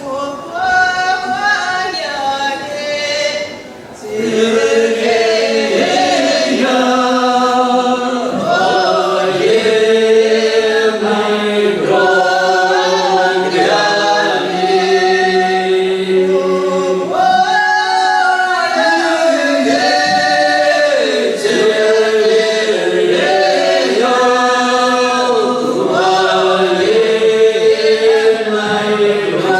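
Folk vocal ensemble singing a southern Russian village song in several parts, unaccompanied. The opening line is quieter, and the full group comes in about four seconds in and carries on at full strength.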